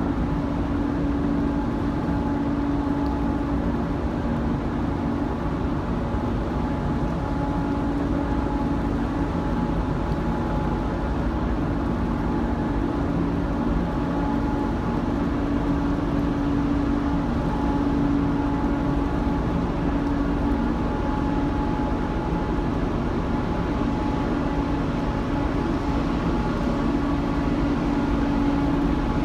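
Steady machinery drone on board a large ferry, an even rumble with a low hum running through it.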